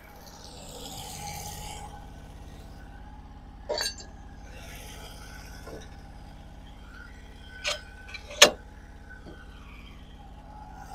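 Sawmill engine idling with a steady low hum, under a few sharp metallic clinks: one about four seconds in and two close together near eight seconds in, as the log is set for the next cut.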